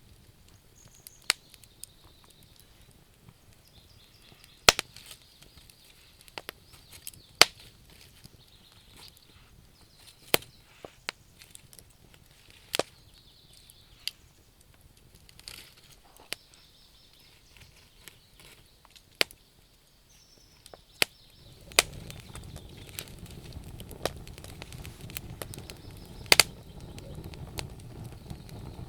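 Wood campfire crackling, with about a dozen sharp, irregular pops and snaps of burning wood over a faint high chirring in the background. About three-quarters of the way through, a low steady rushing of the flames grows louder.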